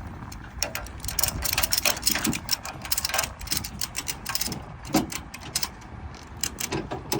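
Metal clicking and clanking of load-securing chains and a chain binder being worked by hand, many quick irregular clicks over a low rumble.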